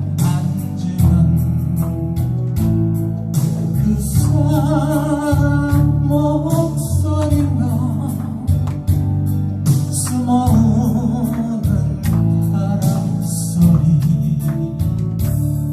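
A solo singer performing a song, with wavering held notes, over instrumental accompaniment with a steady beat.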